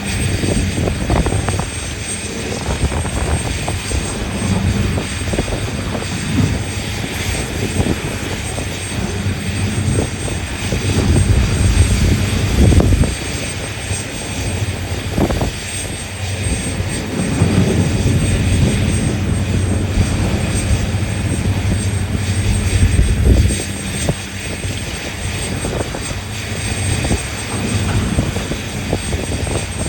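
Large diesel engines of mining machinery running with a steady low drone. The drone swells louder twice, as the engines work harder, and occasional short knocks sound over it.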